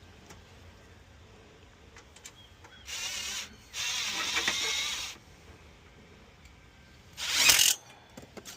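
Cordless drill-driver running in three short bursts, the last and loudest near the end, driving screws while the unit is buttoned up.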